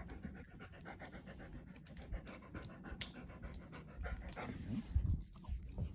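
Siberian husky panting hard and fast, worked up with excitement, with a short rising whine about three-quarters of the way through.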